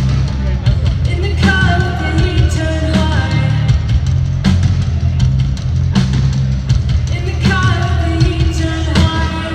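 Live rock band playing loud: a heavy, dense low end under steady drum hits, with held sung vocal lines coming in about a second and a half in and again near the end.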